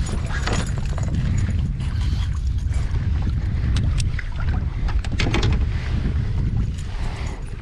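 Wind buffeting the microphone aboard a fishing kayak, a steady low rumble, with a few light knocks about four to five seconds in.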